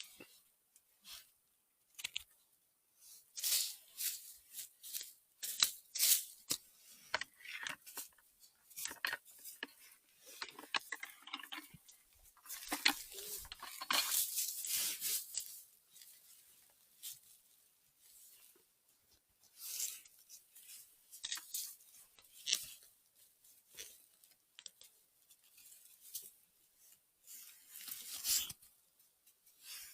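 Irregular rustling and crackling of dry forest litter (leaves, grass and twigs), in bursts of short crackles and snaps.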